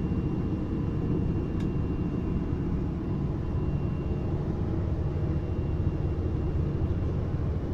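Interior of a regional train running along the line: a steady low rumble of wheels and running gear, with a faint thin whine that fades out about halfway through and a single light tick near the start.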